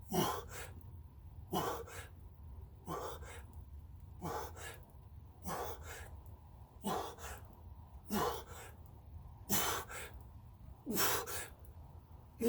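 A man's hard, gasping exhales, one about every second and a half, nine in all, each with a short falling grunt: the effort breathing of someone straining through the last push-ups of a set.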